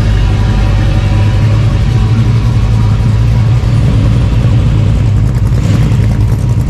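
A car engine running at a steady idle, loud and close, with a deep even rumble.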